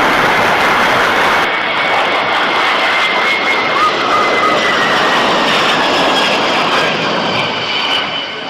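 Airbus A380's four turbofan jet engines running loud: a steady jet roar with a high whine that falls slightly in pitch, easing off near the end.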